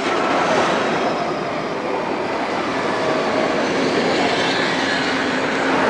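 Tram running along the track: a steady mix of rolling and rail noise with a faint motor whine.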